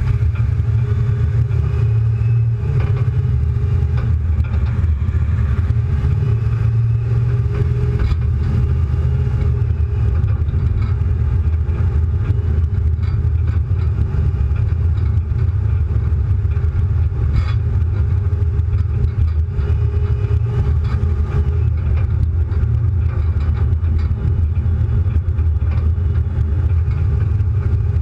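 A car engine running with a steady low drone as the car drives along a street, mixed with road noise.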